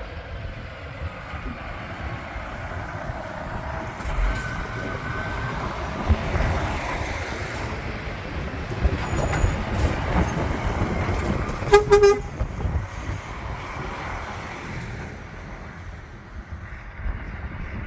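A truck engine rumbling as the truck drives past, growing louder towards the middle. A short, loud horn toot sounds about twelve seconds in.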